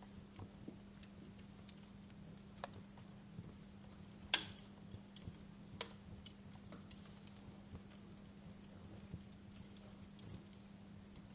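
Wood fire in a fireplace crackling: sparse, irregular pops and snaps, the loudest about four seconds in, over a faint steady low hum.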